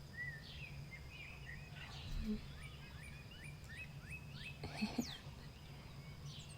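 Several songbirds singing in the dawn chorus, heard faintly: scattered chirps and whistles, with a run of quick repeated notes a few seconds in, over a steady low hum.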